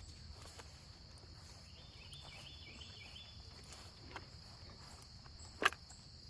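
Steady high-pitched insect chorus droning throughout, over a low background rumble, with one sharp click about five and a half seconds in.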